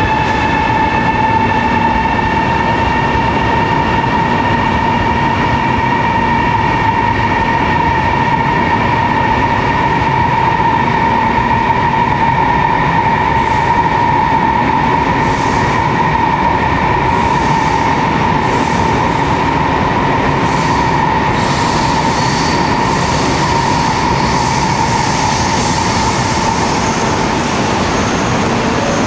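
CRH380B high-speed electric train pulling out and gathering speed: a steady electric whine, slowly rising in pitch, over the rumble of wheels on the rails. From about halfway on come scattered clicks and rattles.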